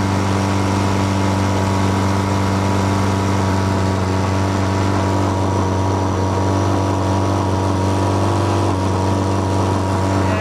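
Boat motor running steadily on an electric fuel pump, with a constant, even pitch. The owner feels it is missing and thinks something is not quite right.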